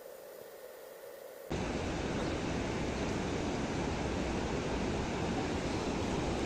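Steady rushing of mountain river water, cutting in abruptly about a second and a half in after a quiet start.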